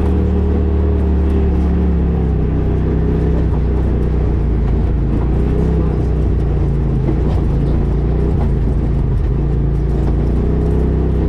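Rally car engine running under load on a grass-and-dirt track, heard from the car's bonnet-mounted camera; the engine note holds fairly steady, with small rises and dips in pitch.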